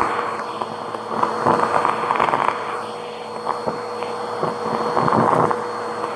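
Vacuum cleaner running at full speed with a steady high motor whine. It grows louder in stretches, with scattered crackles and ticks.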